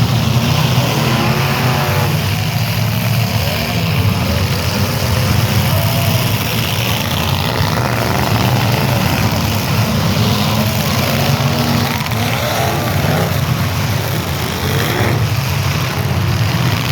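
Several demolition derby cars' engines running loudly together, revving up and down in overlapping rises and falls of pitch.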